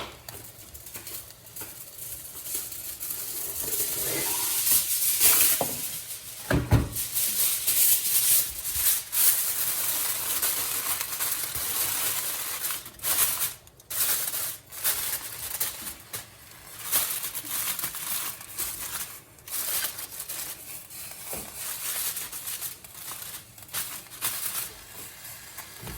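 Crinkling, rustling and tearing in uneven bursts as a covering is pulled over the pan of paella.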